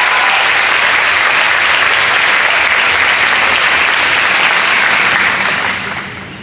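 Large audience clapping steadily in a hall, fading away near the end.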